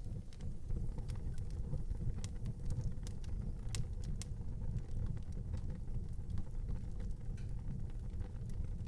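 Wood fire burning in an outdoor fireplace: irregular sharp crackles and pops over a steady low rumble, with two louder pops a little under four seconds in.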